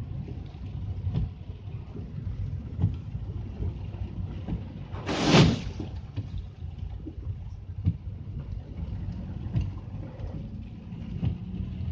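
Steady low rumble of wind on the microphone. About five seconds in, a loud, short rushing splash: a vehicle's tyres hissing through water on a rain-wet road.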